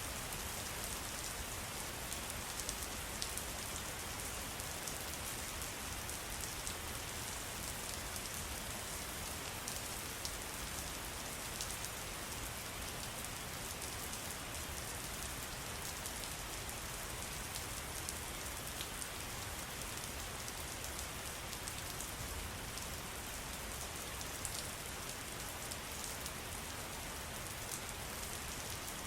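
Steady hiss of falling water, with many small drop ticks scattered through it, unchanging throughout.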